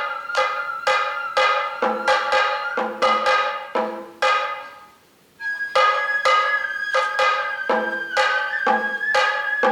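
Sato kagura accompaniment: a bamboo flute holding a high note while drums are struck about twice a second in an uneven pattern. The music breaks off briefly halfway through, then the flute returns on a slightly higher note with the drumming.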